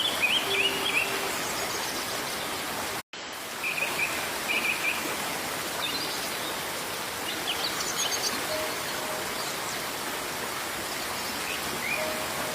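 Birds chirping in short scattered phrases over a steady hiss of rain or running water. The sound cuts out for a moment about three seconds in.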